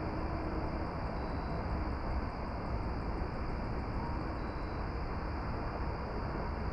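Steady, even rumbling noise, strongest in the deep bass, with no distinct sounds standing out.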